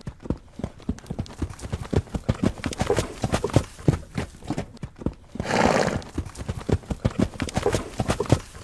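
Horse hooves clip-clopping in a quick, steady rhythm, with one short horse whinny a little past the middle that is the loudest sound.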